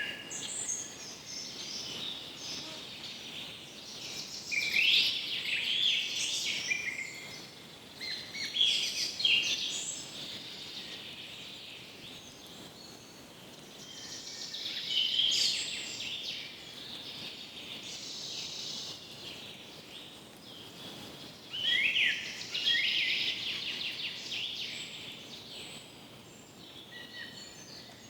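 Birds calling in repeated bursts of high chirps, a second or two each, every few seconds, over a steady background hiss.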